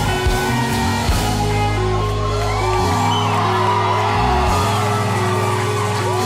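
Live worship band music with long held chords over a deep bass, changing chord a few times, and many voices shouting and singing over it.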